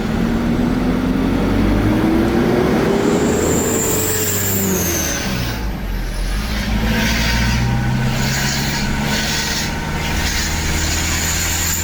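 Euro 4 diesel truck engine running through an FRM racing muffler, its note rising steadily for about four seconds as it revs up, dropping back, then running steady.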